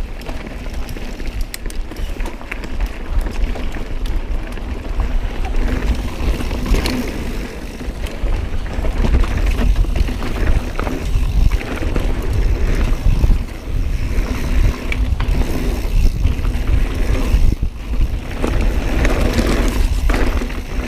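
Mountain bike being ridden over a rocky trail: tyres rolling and the bike rattling with many short knocks over the rocks, under a strong low rumble of wind on the microphone.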